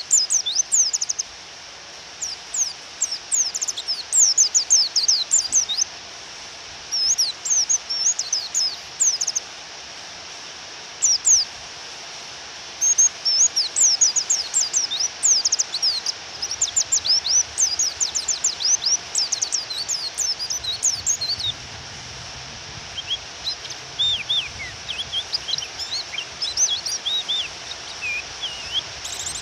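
White-eye (pleci) calling in quick bouts of high, rapid downslurred chirps over a steady hiss of rain; this is the female's call, used to provoke a male white-eye into singing. About two-thirds of the way through the chirps turn fainter, lower and more scattered.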